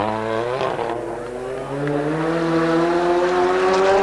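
Rally car engine under hard acceleration. Its pitch drops briefly at a gear change in the first second, then climbs steadily and grows louder for about three seconds.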